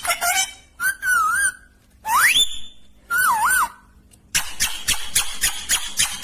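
A pet parrot whistling: three short clear whistles, the first and third wavering up and down and the middle one sliding steeply upward. In the second half it breaks into a stretch of rapid harsh chatter.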